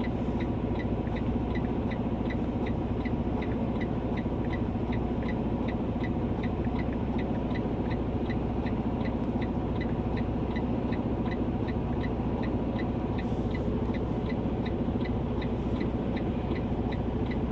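Semi-truck diesel engine idling, heard from inside the cab as a steady low rumble, with a rapid, even high ticking about two and a half times a second.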